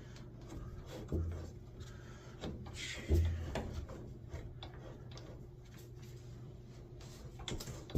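Hand work with tools and parts: scattered clicks, taps and rubbing, with two louder knocks about one and three seconds in, over a steady low hum. It likely includes snips of diagonal cutters, which have just been used and are blamed for cutting poorly.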